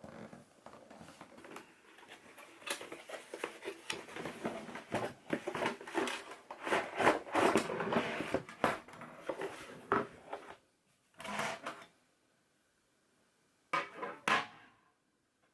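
Hands handling metal camping gear: a dense run of clicks, clinks and rattles for about ten seconds, then a few short bursts of handling noise with quiet between them.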